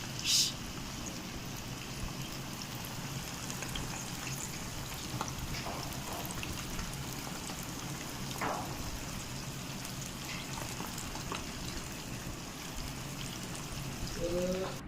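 Chicken pieces coated in corn flour deep-frying in hot oil: a steady sizzle with scattered small pops.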